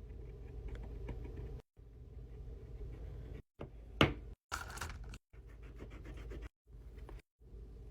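Scratching and rubbing sounds of hands working on a paper craft, with a sharp click about four seconds in. The sound is chopped into several short pieces by abrupt cuts to silence.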